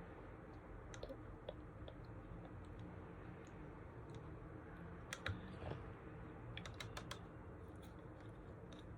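Faint, scattered light clicks and taps of small objects being handled, over quiet room tone, with a small cluster about five seconds in and another about seven seconds in.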